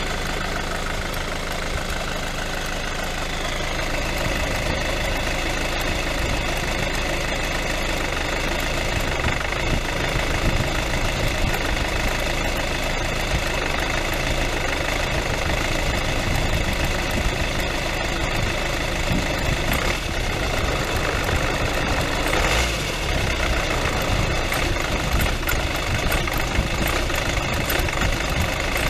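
Hyundai i40 1.7 diesel engine idling, with a light single ticking from the front belt drive. The mechanic suspects the alternator's one-way clutch pulley is damaged, since a new belt has not cured it.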